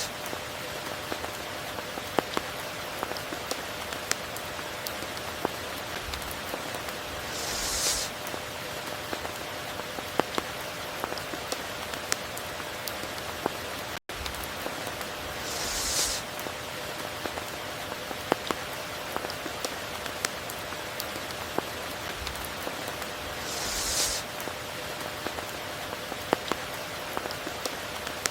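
Steady rain falling, with many individual drops ticking through the hiss and a short, higher hissing swell about every eight seconds. The sound cuts out for an instant about halfway through.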